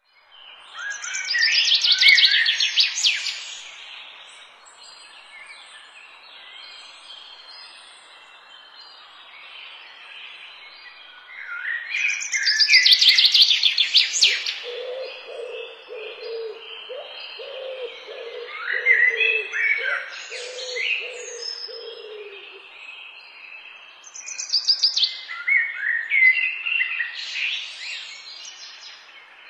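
Songbirds singing in bursts of fast chirping song over a steady background hiss. In the middle a lower call repeats for several seconds.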